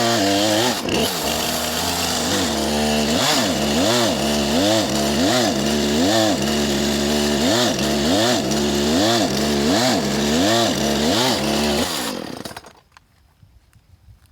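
Gas chainsaw running under load while cutting into a tree trunk, its engine speed rising and falling over and over, roughly every three-quarters of a second. About twelve seconds in, it cuts off suddenly.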